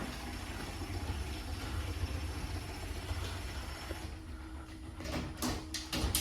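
Linear LDCO801 chain-drive garage door opener running with no door attached: a steady low motor hum with light chain rattle. Near the end come several sharp clicks and the running sound stops.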